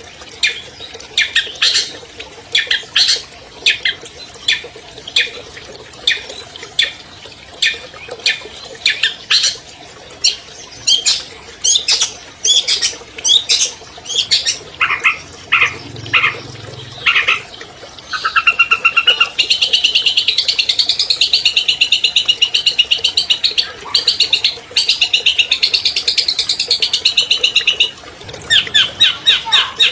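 Long-tailed shrike singing: a string of short, harsh notes for the first half, then a fast, continuous chattering trill for about ten seconds, then more short notes near the end.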